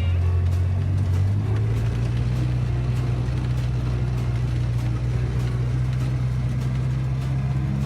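Side-by-side utility vehicle's engine running steadily while pushing snow, its pitch rising slightly about a second in and then holding.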